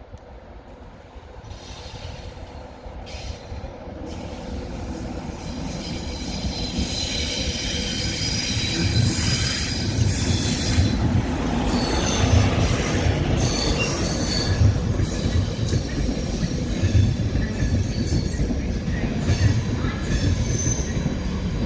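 Train running through the station, growing steadily louder over the first ten seconds or so, with wheel squeal from the rails. A low rhythmic thudding of wheels over rail joints sits under it.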